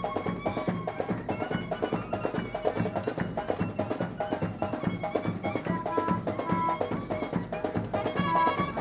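Traditional Indian wedding music: fast, steady drumming with a melody of short repeated notes over it.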